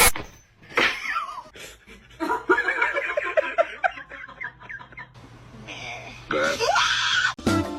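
A person laughing in a quick run of short bursts, about five a second, with more laughter or voice near the end; a short, sharp, loud noise at the very start.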